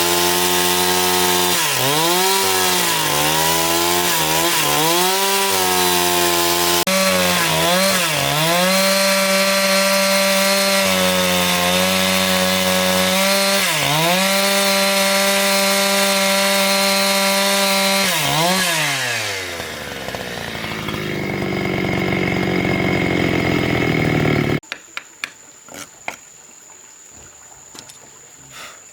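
Chainsaw running at high revs and cutting wood, its pitch dipping again and again as the chain bogs down in the cut. About nineteen seconds in the engine winds down, and a few seconds later the sound cuts off abruptly, leaving a few light knocks.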